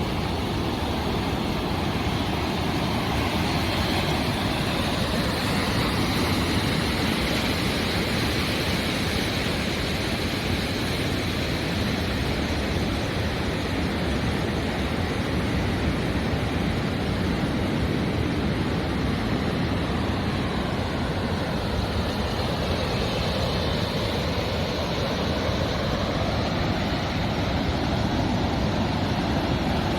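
Ocean surf breaking on a beach: a steady rush of waves with slow swells and ebbs in level.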